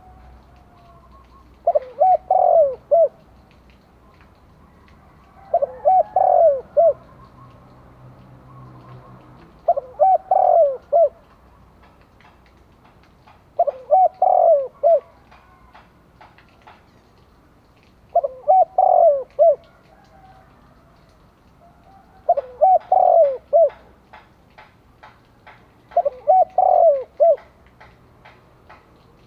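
Spotted dove cooing: a short phrase of a few coos, repeated seven times about every four seconds. Faint clicks sound between the later phrases.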